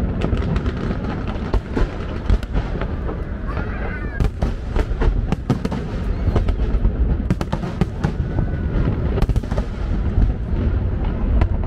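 Fireworks display: aerial shells bursting over a steady low rumble, with clusters of sharp crackling pops from crackle-star effects, thickest about four to five seconds in and again from about seven to nine seconds.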